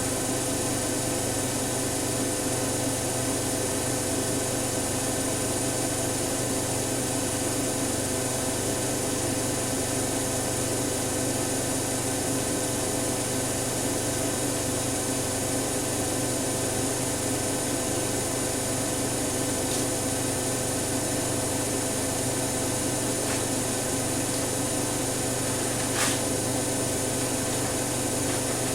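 Siemens Siwamat iq 716 washing machine running at a steady speed, a constant motor and drum hum with a fixed whine, and a single short click near the end.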